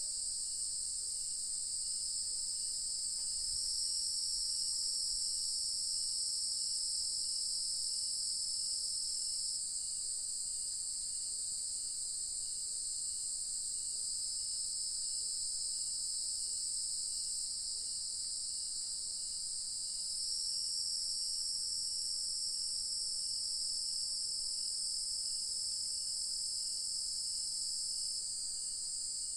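Insect chorus of crickets and similar night insects: a steady, dense, high-pitched trilling in two overlapping layers whose loudness swells and eases every several seconds, with a faint soft chirp repeating about twice a second beneath it.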